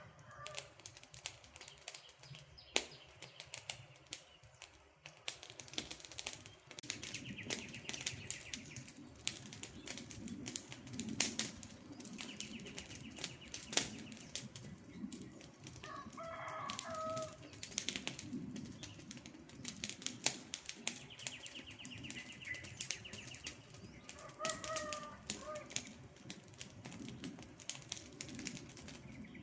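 Campfire crackling and popping, with the low flutter of burning flames. A bird calls a few times, and high trills sound now and then.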